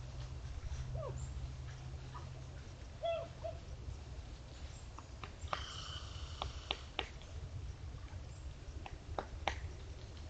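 Faint short animal calls: a few brief squeaks and chirps and one harsher call about halfway through, with scattered clicks over a steady low hum.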